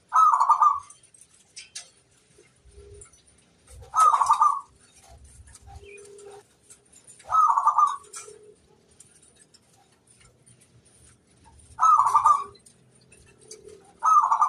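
Zebra dove (perkutut) cooing: four short, rippling coo phrases, each under a second, about every four seconds, with another beginning near the end. Fainter, lower calls come in the gaps between them.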